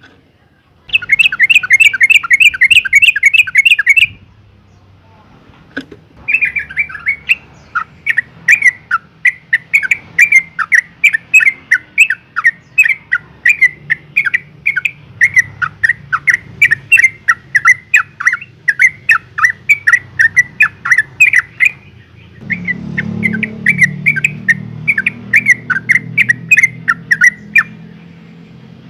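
Yellow-vented bulbul calling in rapid runs of short chattering notes: one burst of about three seconds, a pause, then long runs of notes, broken briefly near the two-thirds mark. By the uploader's account this is a female's call to a male. A low background rumble comes in during the last part.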